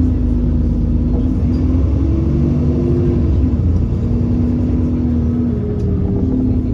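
Alexander Dennis Enviro400 Trident double-decker bus running, a heavy low rumble with a steady whine from the drivetrain that changes pitch about three and a half seconds in.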